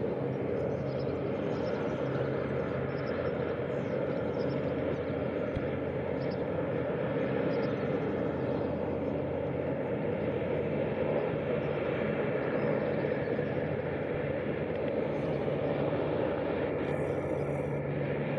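Steady low drone of a large ship's engines, a constant hum with several low tones held throughout.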